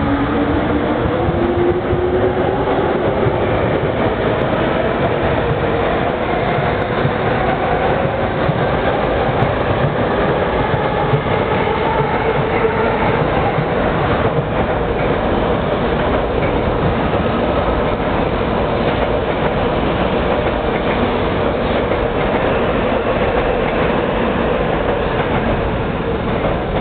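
Yamanote Line E231 series electric commuter train pulling away, its motor whine rising in pitch over the first few seconds and then holding steady, under the loud steady noise of train wheels running on the rails.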